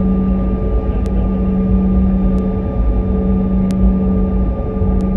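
Cabin noise of a Canadair regional jet taxiing: a steady rumble from its rear-mounted turbofan engines at taxi power, with a steady hum and a thinner whine. Faint sharp ticks come about every second and a half.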